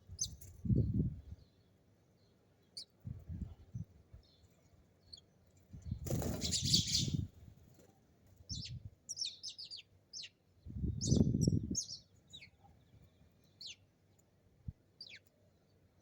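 Small birds chirping, many short, quick high calls scattered throughout. Four low, muffled bursts about a second long break in, the loudest about six seconds in.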